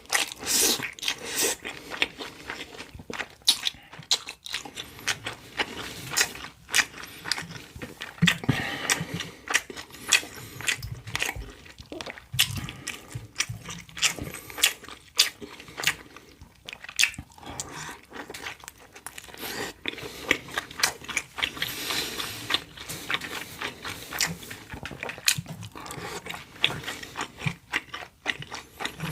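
Close-miked eating of crispy fried dumplings: repeated crunchy bites and chewing, with many irregular sharp crackles and mouth clicks.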